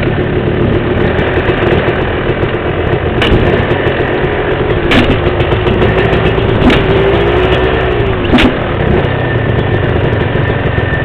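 Dirt bike engine running steadily at low revs, with sharp clicks about every second and a half.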